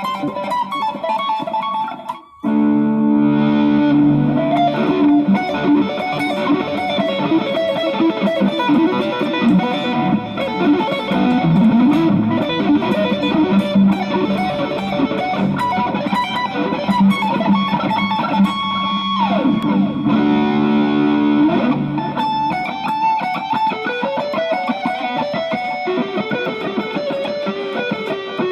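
Electric guitar with a Duncan-style treble bleed (102J capacitor) on its volume pot and an Orange Drop 223J tone capacitor, played for a tone demo. It stops briefly about two seconds in, then goes on with ringing held chords mixed with picked phrases and moves to single-note melodic lines near the end.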